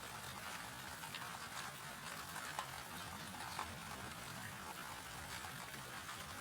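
Steady rain, a hiss of falling drops with scattered sharper drip ticks, two of them a little louder near the middle.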